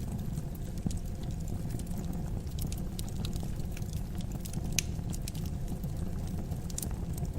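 Wood fire crackling in a fireplace: scattered sharp pops and snaps over a steady low rumble, with one louder pop about five seconds in.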